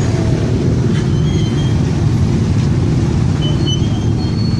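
Steady low rumble of a vehicle on the move: engine and road noise heard while riding along.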